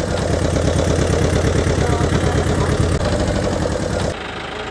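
A small motor running with a rapid, even engine-like pulse. It drops abruptly in level about four seconds in.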